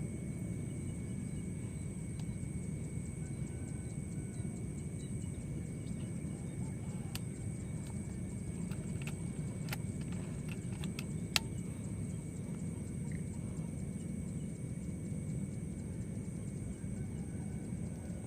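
Steady outdoor ambience: a low rumble with two steady high-pitched drones over it. A few faint clicks come around the middle, then one sharp click about eleven seconds in.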